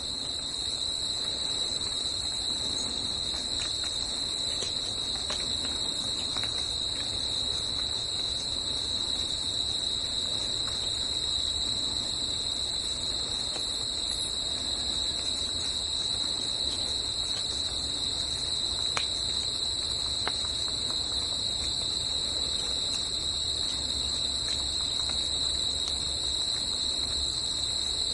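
Steady, high-pitched chorus of insects in a forest: one unbroken shrill tone with a fainter, higher one above it, over a low background hiss.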